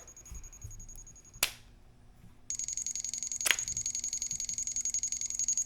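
Thermal detonator prop electronics: a click, then from about two and a half seconds in a fast, high-pitched electronic beeping that keeps going, with another click about a second after it starts.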